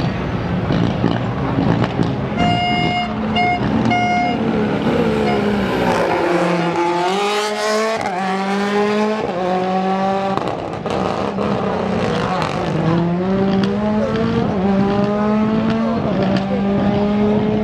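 Rally car engine accelerating hard, its pitch climbing in steps as it shifts up through the gears, twice. A few seconds in, a steady horn-like tone sounds three times.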